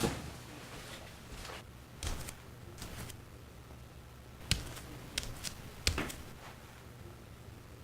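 A few short, sharp clicks and knocks, scattered and unevenly spaced, over a faint low steady hum.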